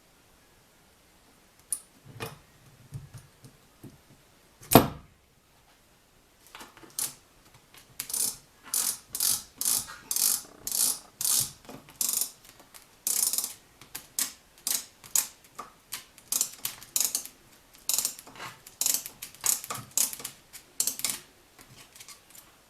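Hand-tool work on metal: a few clicks and one sharp knock, then a long run of short, rhythmic strokes, about two to three a second.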